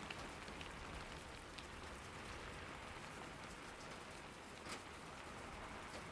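Steady rain falling, a constant hiss of drops with scattered sharper drips, one of them louder a little before the end.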